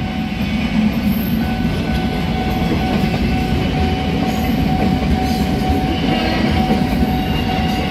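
KRL commuter electric multiple-unit train passing close by, its wheels running over the rails in a loud, steady noise, with a thin steady tone held above it.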